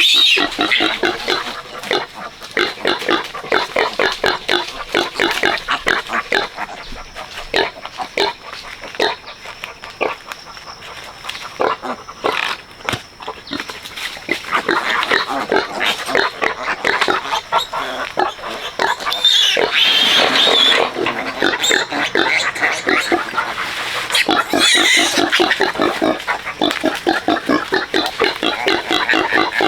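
Pigs, a sow with her piglets, grunting in a rapid, continuous run, with shrill squeals breaking in at the start and again about twenty and twenty-five seconds in.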